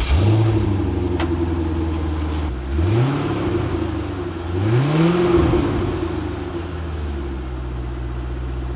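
C5 Corvette V8 idling on its stock exhaust, still before the muffler delete, blipped twice with short revs about three and five seconds in, then settling back to a steady idle.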